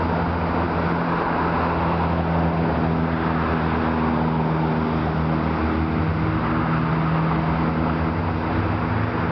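A motor vehicle's engine idling steadily, a constant low hum under general road noise.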